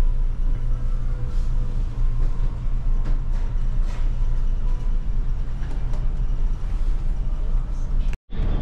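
Steady low rumble of a moving vehicle heard from inside, with small scattered rattles and clicks; it drops out for an instant near the end.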